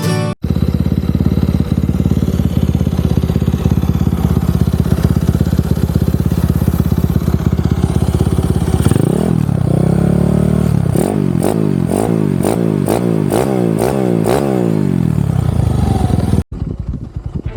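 Honda CB motorcycle engine idling with a steady pulse, then revved in a series of quick throttle blips, each pitch rising and falling back, for several seconds. It cuts off suddenly near the end.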